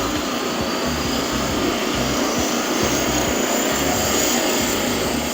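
Helicopter turbine sound effect spooling up: a thin whine climbing slowly in pitch over a steady rumble of engine and rotor noise.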